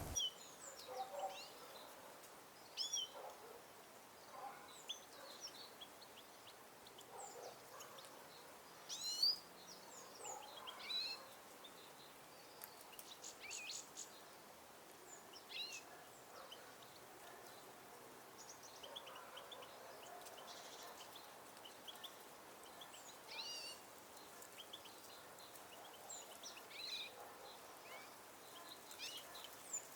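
Faint, scattered chirps and short twittering calls of small songbirds, several birds calling at irregular moments, over a low background hiss.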